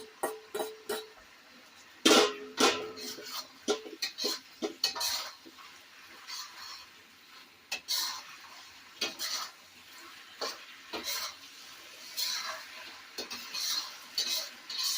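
A utensil stirring and scraping a stir-fry in a pan, with irregular clinks and scrapes of metal on metal, loudest about two seconds in.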